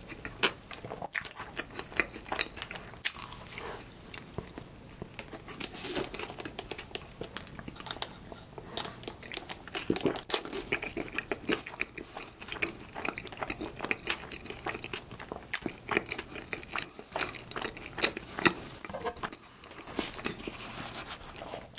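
Close-miked chewing and biting of soft filled bread buns, heard as a dense, uneven run of small mouth clicks and smacks.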